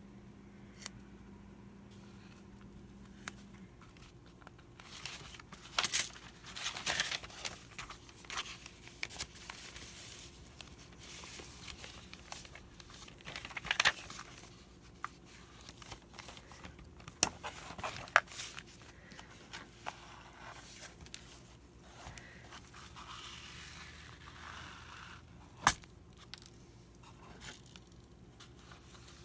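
Close handling noises of hand-sewing a book spine: scattered sharp clicks and taps with short rustles of paper and thread, the loudest clicks a few seconds apart.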